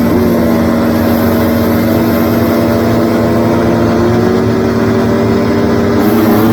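Motocross bike engines on the race track, held at steady high revs, with the pitch of one slowly climbing. Rapid revving up and down resumes right at the end.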